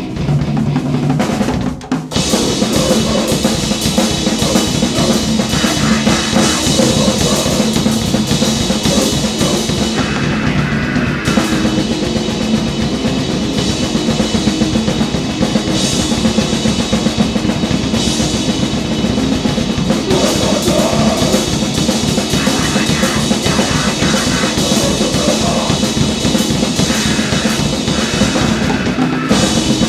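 Grindcore/noise band playing loud and fast: pounding drum kit with bass drum and snare under a dense wall of distorted noise, with a brief break about two seconds in before the band crashes back in.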